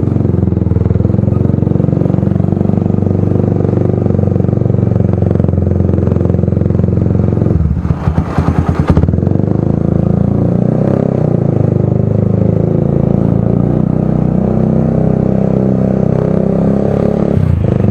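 Motorcycle with a loud exhaust and no silencer fitted, running under way. About eight seconds in, the throttle closes for a second and the exhaust breaks into separate pulses, then the engine pulls steadily again.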